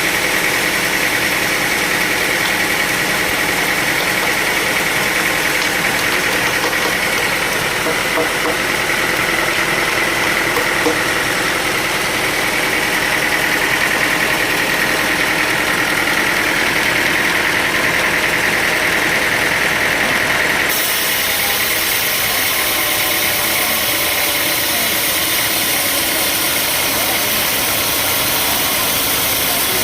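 Sawmill machinery running steadily: an engine-driven saw with a high whine that grows stronger midway, then stops abruptly about two-thirds of the way through as the sound changes character.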